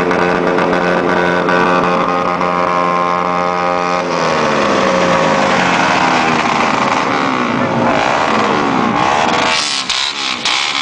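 An engine running at a steady pitch, which about four seconds in drops and then wavers up and down. Near the end it turns rougher and noisier, with crackling.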